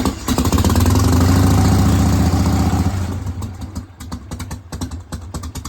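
1988 Harley-Davidson Softail's 1340 Evolution V-twin being turned over by its electric starter, cranking steadily with a rapid even pulse without firing, because there is no gas in the tank. The cranking stops about three seconds in and is followed by scattered light clicks.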